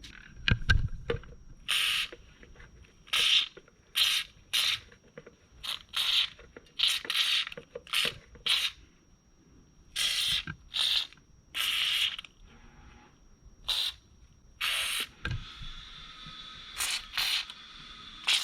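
White lithium grease aerosol spray fired in a string of short bursts, about fifteen sharp hisses a fraction of a second each with short gaps between, with a longer rough hiss near the end.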